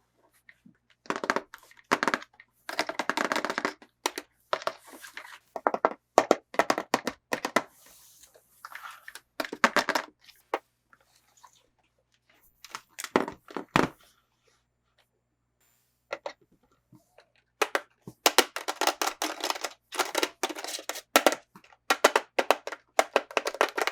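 Plastic and cardboard toy packaging being handled and opened: irregular crinkling, crackling and clicking in bursts, with a quiet stretch of about two seconds a little past the middle.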